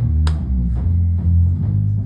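A band playing rock music: a drum kit keeping the beat under a moving bass guitar line, with guitar.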